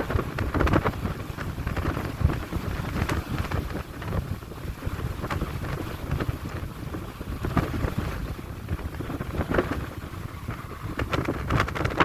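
Strong wind gusting across the microphone: a rumbling rush that swells and eases unevenly, with repeated buffeting thumps.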